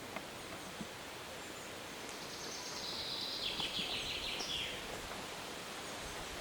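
A songbird sings one fast descending trill of rapidly repeated notes lasting about two seconds, over a steady outdoor background hiss with a few faint clicks.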